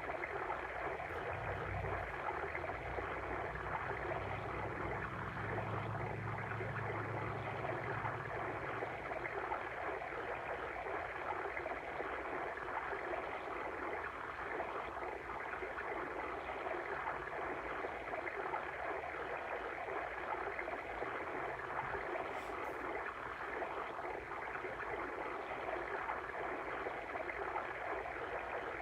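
Water stream flowing steadily: an even rushing and gurgling of running water.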